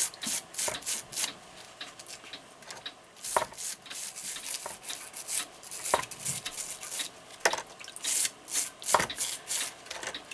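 Brass brush scrubbing clock movement parts in a water-based ammoniated clock cleaning solution in quick repeated scrubbing strokes, stripping off old hardened grease. A few sharper knocks of a part come in between the strokes.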